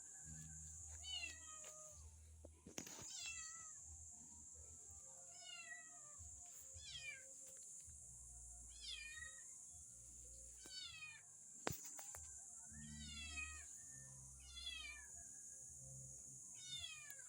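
Kitten meowing over and over, about nine short calls roughly two seconds apart, each falling in pitch.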